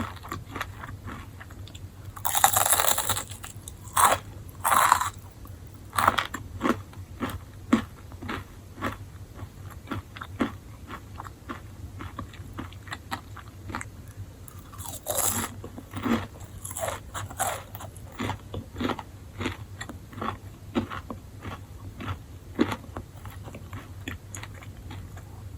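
Enoki mushrooms being bitten and chewed: a few loud crunchy bites about two seconds in, again around four to five seconds and around fifteen seconds, with steady chewing clicks in between over a faint low hum.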